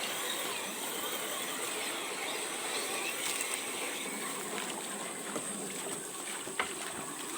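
Steady rushing of running stream water, with a few faint clicks.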